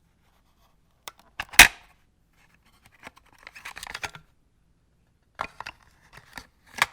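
A scattered series of sharp clicks and light knocks, one louder click about one and a half seconds in, with soft rustling between them.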